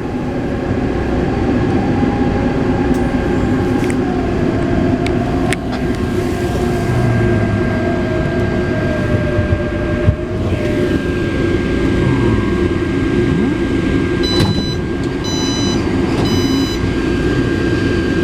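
Taipei Metro C381 train running along the track: a steady wheel-and-rail rumble under a traction motor whine that slowly falls in pitch partway through. Three short electronic beeps sound near the end.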